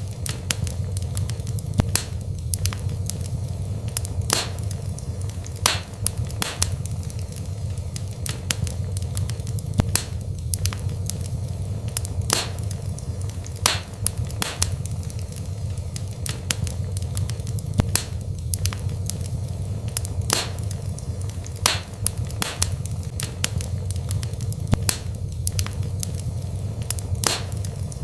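Wood burning in a fireplace: frequent sharp crackles and pops at irregular intervals over a steady low rumble.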